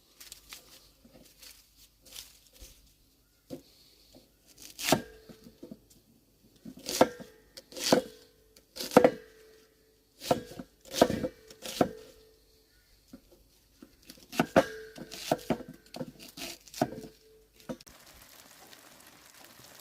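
An onion being chopped with an axe on a board: irregular sharp chops coming in groups, loudest between about seven and twelve seconds in, each with a brief ringing tone. A faint steady hiss takes over near the end.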